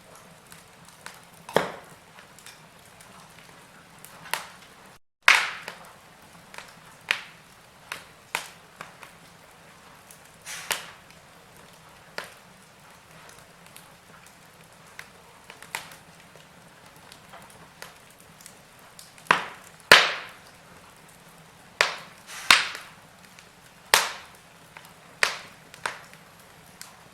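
Wood fire burning in a fireplace, crackling with irregular sharp pops of burning logs at uneven intervals, some loud, over a faint steady hiss. About five seconds in, the sound cuts out briefly and comes back with a loud pop.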